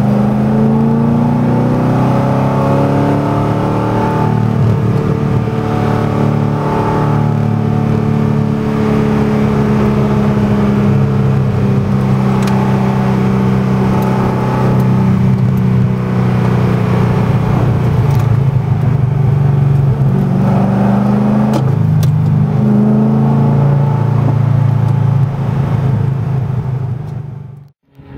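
Corvette C6 Z06's 7.0-litre LS7 V8 through long-tube headers and Billy Boat Fusion mufflers, under way. The engine note climbs in pitch over the first few seconds, then holds mostly steady, stepping up and down briefly about three-quarters of the way through. It drops away suddenly just before the end.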